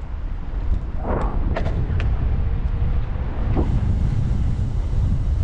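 Wind buffeting the microphone on a moving e-bike: a steady low rumble, with a few brief clicks or knocks between about one and two seconds in and one more later.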